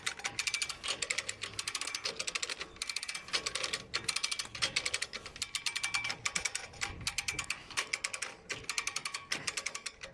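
Winch ratchet clicking rapidly in repeated strokes about a second long with short pauses, as the winch is tensioned to pull a stuck left drive shaft off a Mitsubishi Pajero Pinin.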